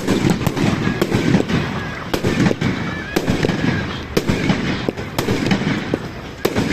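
Fireworks going off in a continuous barrage: a dense run of sharp bangs and crackles in quick succession.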